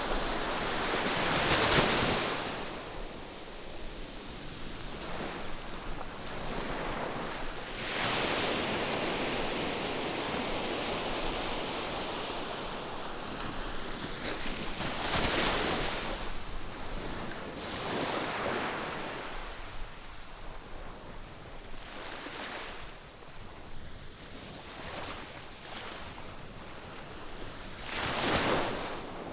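Ocean waves breaking and washing in on the shore as a steady surf hiss that swells every few seconds, with the loudest breakers about two seconds in and near the end.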